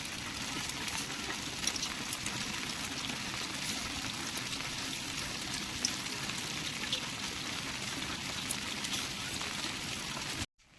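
Steady rain falling and pattering on surfaces, with many individual drops ticking sharply; it cuts off abruptly near the end.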